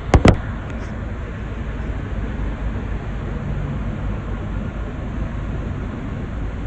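Two sharp knocks right at the start, then a steady low rumble of outdoor background noise with no clear engine note.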